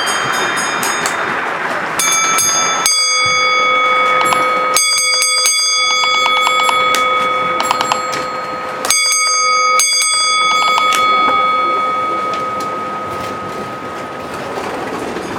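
A bell struck several times, about two, three, five and nine seconds in, its clear tone ringing on between strikes and slowly fading toward the end.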